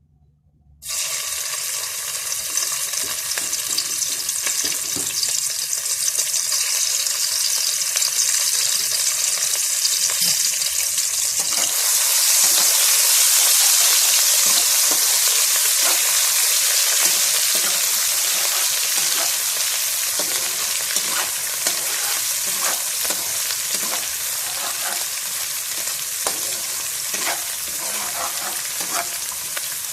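Pounded chili paste of dried chilies, shallots, garlic and ginger going into hot oil in a pan, sizzling loudly from about a second in. The sizzle swells for a few seconds around the middle, and the paste is stirred through it with small clicks.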